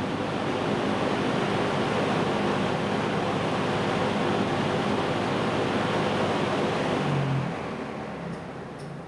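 Lakewood Windsor P-23 20-inch box fan running with a steady rush of air from its aluminium blade. About seven seconds in it is switched off and the sound fades away as the blade coasts down.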